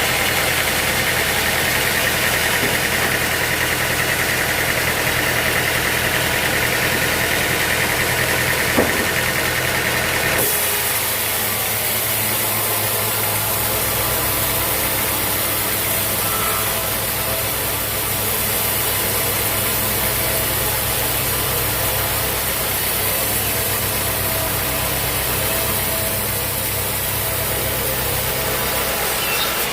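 Sawmill machinery engine running steadily with a low, even hum and a single short click about nine seconds in. The sound shifts abruptly about ten seconds in, then runs on steadily.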